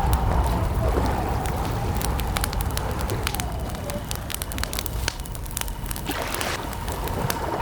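Wood campfire crackling with frequent sharp pops and snaps over a steady low rumble of burning, with a faint wavering tone behind it.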